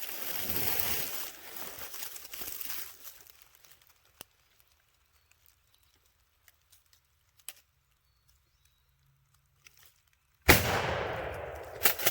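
A single shotgun blast about ten and a half seconds in, sudden and loud, its report rolling away over about a second and a half; it is the shot that takes the turkey. A couple of sharp knocks follow near the end, and a rushing noise fills the first few seconds.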